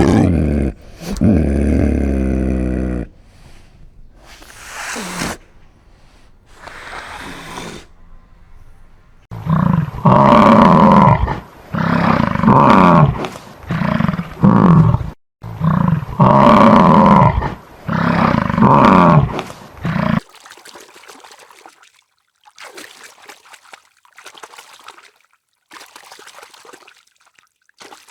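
Lion roaring: a loud low call at the start, then two loud bouts a few seconds apart, each a long roar trailing into shorter grunting calls.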